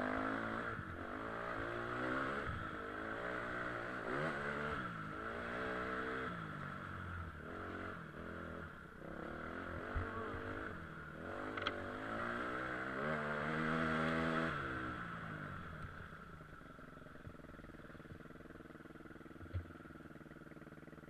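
KTM EXC 250 dirt bike engine revving up and down over and over, its pitch climbing and dropping with throttle and gear changes. About fifteen seconds in it settles to a quieter, steady running note, with a few sharp clicks along the way.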